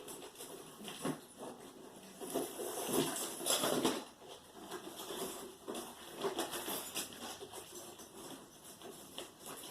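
Handling noises as jewelry and packing are taken out of a box: irregular rustling with light clicks and clatter, busiest a few seconds in.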